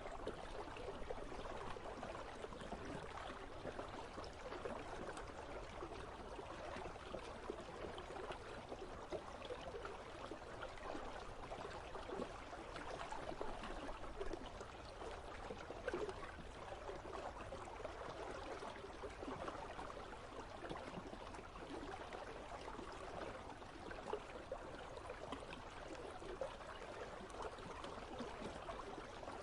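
Water of an icy river flowing steadily, a continuous rush dotted with many small splashes and trickles.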